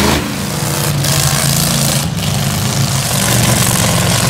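Carbureted car engine running steadily at idle.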